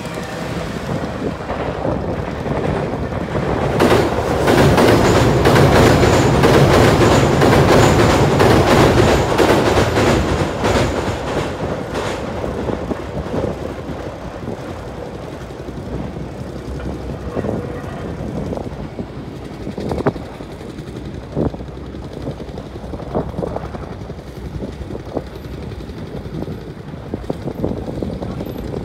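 Electric commuter train crossing a steel girder railway bridge: a loud rumble with rapid wheel clatter, loudest from about four to eleven seconds in. After that comes a fainter, steadier train rumble with a few single sharp clicks.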